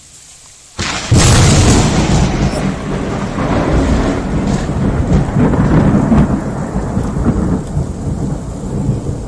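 Nearby thunderclap: a sudden sharp crack about a second in, followed by a long rolling rumble that slowly fades.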